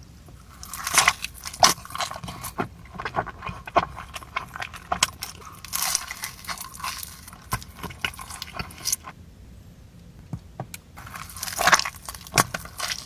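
Close-up eating sounds: someone biting and chewing crunchy food, making irregular crackles and sharp clicks. There is a short lull in the chewing about nine seconds in, and then it picks up again.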